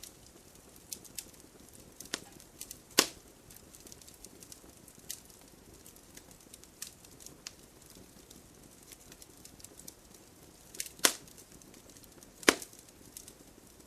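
Wood fire in a fireplace crackling: scattered sharp pops and snaps over a faint low hiss, with the loudest pops about three seconds in and twice near the end.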